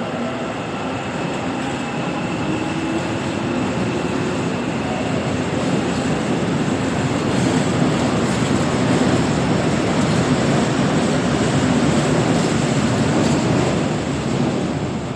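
Seoul Subway Line 4 train (Korail 341000-series 'flat-face' electric multiple unit) pulling away from the station, accelerating. A faint rising motor whine in the first few seconds gives way to steady wheel-on-rail rumble that swells to its loudest about two-thirds of the way in, then eases off near the end.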